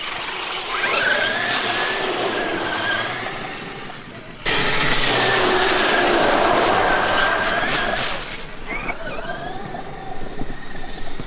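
Traxxas X-Maxx electric RC monster truck running, its motor and drivetrain whining in a pitch that rises and falls as the throttle changes. There are two long runs, the second starting suddenly and louder about halfway through, and scattered lighter sounds near the end.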